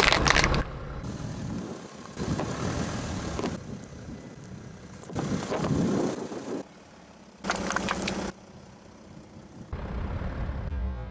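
A car's engine running at low speed as its tyres roll over and crush objects, with sharp cracking crunches at the start and again near the end, in several short clips cut together.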